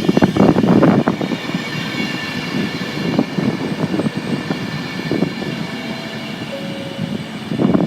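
Train moving along the platform line, with a dense clatter of wheels and rail joints in the first second that settles into a steady rumble with scattered knocks. A faint thin squeal comes in about six seconds in.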